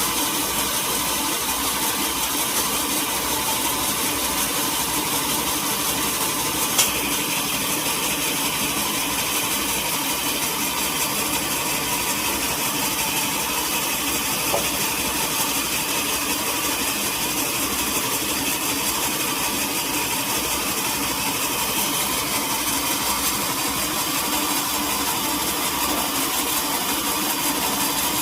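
Sawmill machinery running steadily with an engine drone, with one sharp click about seven seconds in.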